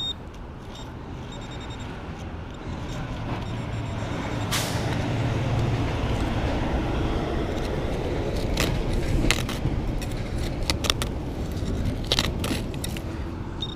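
A motor vehicle passing on the road: a rumble and tyre noise that builds over a few seconds, holds, then eases, with a few sharp clicks and knocks scattered through it.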